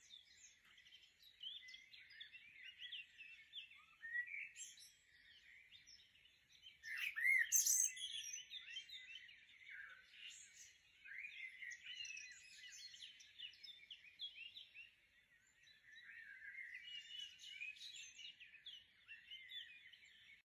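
Small garden birds chirping and singing, a steady run of short, high notes, loudest about seven seconds in.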